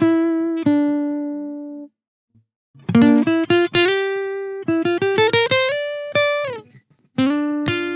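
Music of plucked guitar notes, each ringing out and fading, in short phrases broken by two brief pauses.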